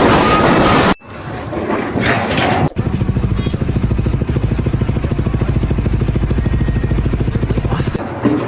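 An engine running with a fast, even beat, after two abrupt cuts between clips in the first few seconds.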